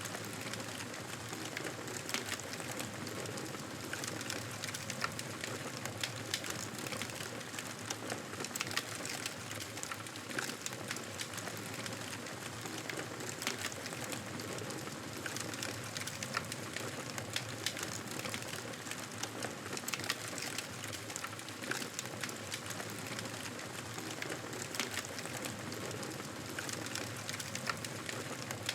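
Wood fire crackling in a fireplace: a steady soft hiss with frequent small, irregular pops and snaps.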